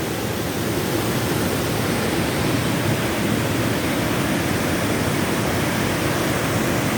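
Steady, loud rush of water from a cascade in full flow after heavy rain.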